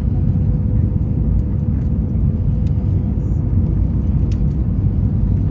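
Steady rumble of an Airbus A320 in flight, with a constant hum running through it and a few faint ticks.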